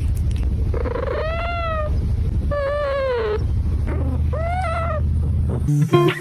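A cat meowing three times in long drawn-out calls that rise and then fall in pitch, over a steady low rumble.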